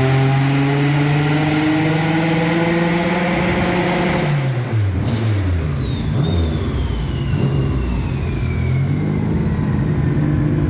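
Turbocharged Subaru EG33 flat-six held at high revs on a chassis dyno, then the throttle closes about four seconds in and the revs drop away. A high whine falls slowly as everything winds down, and the engine settles to a lower speed near the end.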